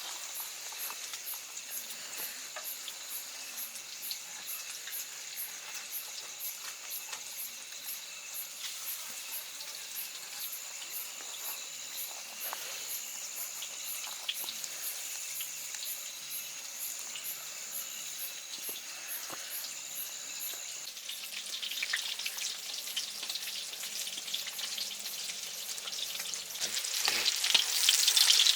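Food frying and sizzling in a hot pan, a steady crackling hiss that swells louder about three-quarters of the way through and much louder near the end.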